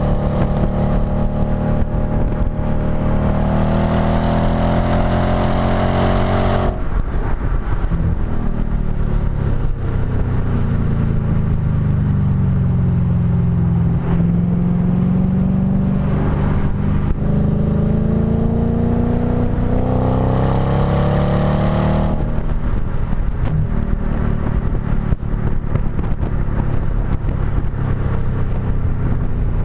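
B7 Audi S4's 4.2-litre V8 through a STaSIS exhaust, heard close at the exhaust, pulling hard with the pitch climbing through the gears. The note drops off sharply about seven seconds in as the throttle is lifted, sinks and then climbs again under power, and lifts off once more about twenty-two seconds in before starting to build again near the end.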